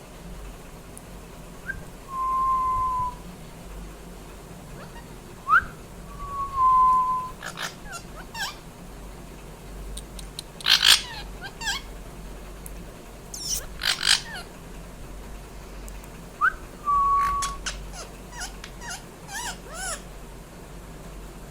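Pet parrot whistling and squawking: three times a quick upward whistle followed by a held flat whistle, with two louder harsh squawks in the middle and short chirps in between.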